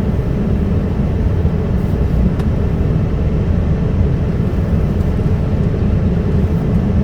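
Dump truck's diesel engine running steadily as the truck moves slowly, a constant low rumble.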